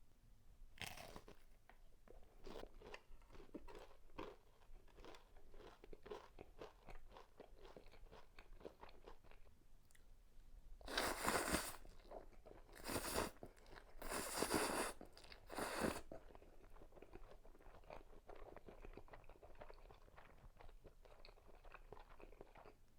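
Close-miked eating of breaded pork cutlet and spicy stir-fried noodles: a steady run of small chewing clicks and crunches, with four louder, noisy bursts of biting or slurping around the middle.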